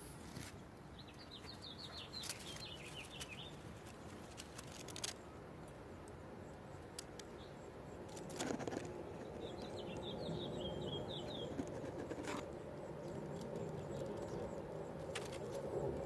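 A bird calling twice, each a quick run of high notes that steps slightly down in pitch, about eight seconds apart. A few sharp clicks in between.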